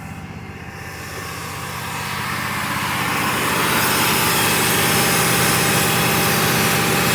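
Dodge Dakota engine running with water being misted into its open intake to burn off carbon. The sound grows louder over the first few seconds, then holds steady at the higher level.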